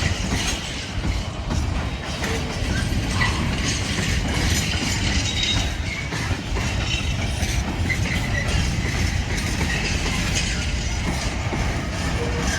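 Train at a station platform: a steady, continuous rumble with faint clicks running through it.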